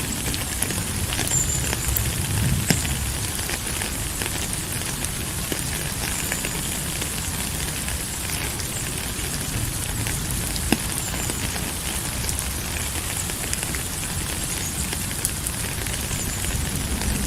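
Steady rain: an even hiss dotted with scattered sharp ticks of drops, one or two louder ones standing out.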